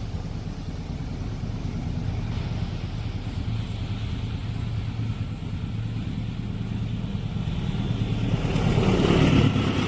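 Diesel train approaching: a steady engine hum that grows louder and peaks as the locomotive passes close by near the end.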